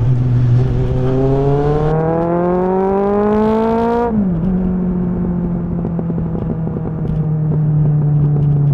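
Kawasaki ZXR inline-four motorcycle engine under way. It accelerates with its pitch rising steadily for about four seconds, dips sharply for a moment, then runs on at an even pitch.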